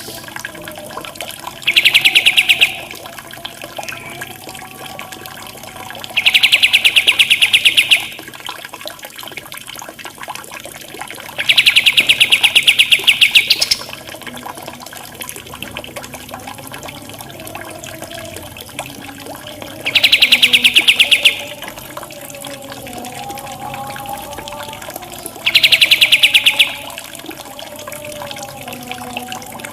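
Birdsong over running water: loud, very rapid buzzing trills, each lasting one to two seconds and coming five times, between softer wavering calls and a steady trickle of water.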